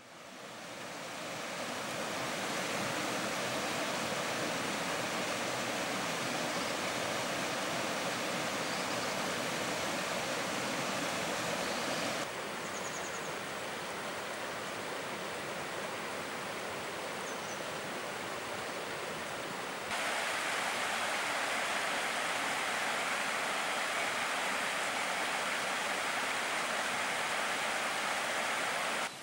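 Steady rushing of a stream, fading in at the start, with abrupt changes in level and tone about twelve and twenty seconds in where takes are cut together.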